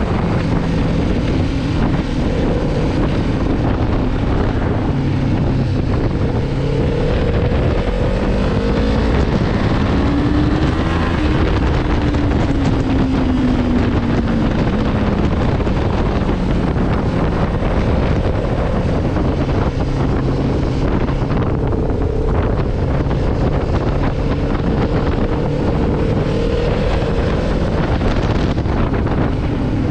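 Kawasaki Ninja 500R's parallel-twin engine running on the road, its pitch rising and easing off a couple of times, under heavy wind noise on the microphone.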